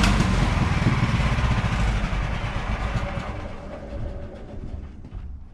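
Sawmill engine shut off and winding down: the running engine note stops and the engine and blade rattle as they coast, fading steadily over several seconds.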